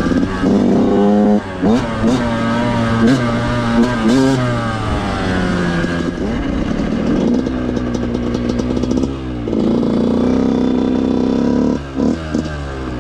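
Yamaha YZ125 two-stroke dirt bike engine being ridden, the revs climbing and dropping again and again through the throttle and gears, with a steadier stretch near the end before the throttle closes.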